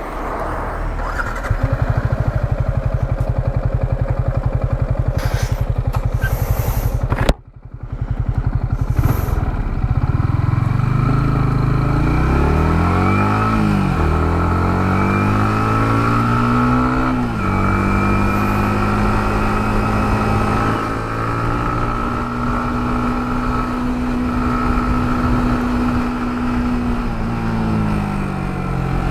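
Yamaha MT-15's single-cylinder engine under way: revs climb and fall sharply at two gear changes, about 14 and 17 seconds in, then hold steady before easing off near the end. The sound cuts out abruptly for a moment about 7 seconds in.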